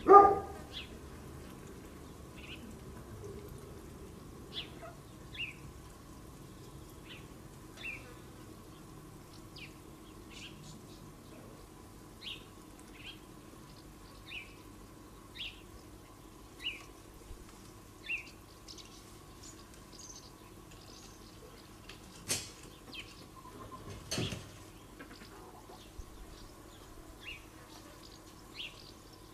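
A small bird chirping over and over, short high notes about once a second, above a faint steady hum. A dog barks once right at the start, and two sharp knocks come about two seconds apart a little after two-thirds of the way through.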